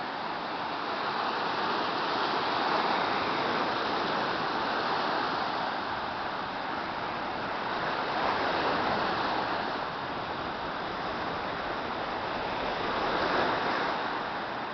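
Sea waves washing onto the shore, a steady rush that swells and falls back every few seconds.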